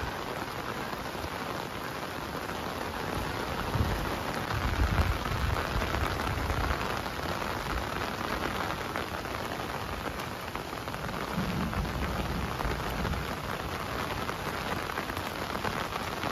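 Heavy rain pouring down steadily, with low rumbles a few seconds in and again past the middle.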